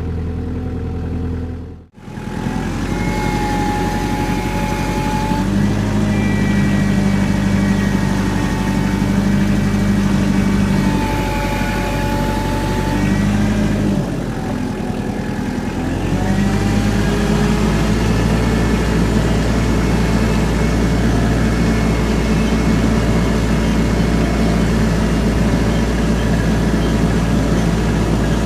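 An engine running steadily, with a whining tone that comes in and drops out several times over it.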